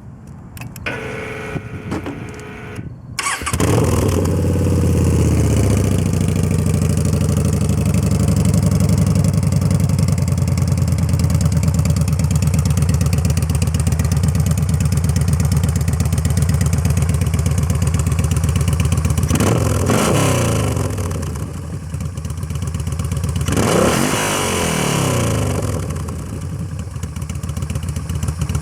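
Yamaha Bolt's air-cooled V-twin, breathing through an Extremeblaster XB06 slip-on disc muffler with 17 plates, is cranked by the starter for about three seconds. It catches with a rev that falls away into a steady, deep idle. Two short throttle blips follow late on, a few seconds apart.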